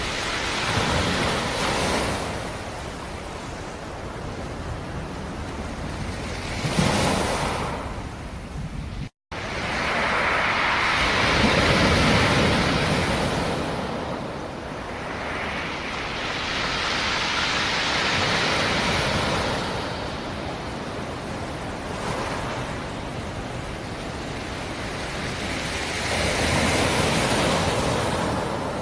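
Black Sea surf, waves breaking on the shore one after another, each swelling up and washing back every five or six seconds. A split-second dropout to silence about nine seconds in.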